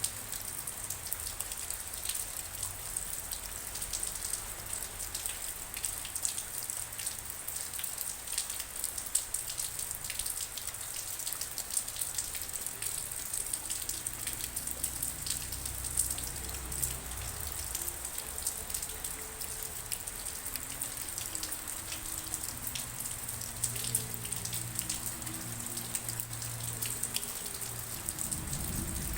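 Steady rain falling, a constant hiss with many distinct drops ticking through it.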